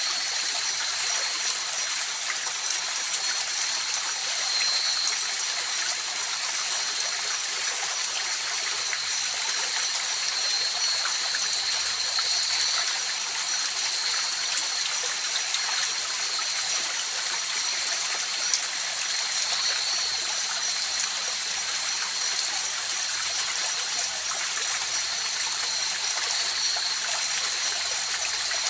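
A river stream flowing steadily over rocks, an even rushing water noise. A thin, steady high-pitched tone runs above it throughout.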